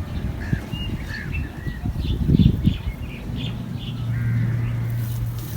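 Birds chirping in short, high notes, with a low thud about two and a half seconds in and a steady low hum setting in near the end.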